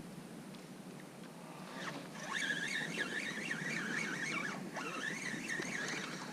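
A bird singing a rapid warbling run of high notes, starting about two seconds in and lasting some four seconds, over faint open-air background.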